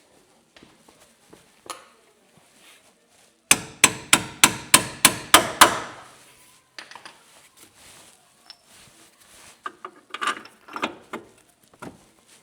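A hammer striking metal about nine times in quick succession, roughly four blows a second, each with a short ringing tail, followed by lighter clinks and knocks of tools being handled.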